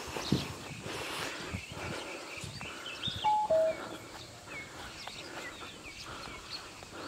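Birds chirping and calling, with a clear two-note falling whistle about three seconds in.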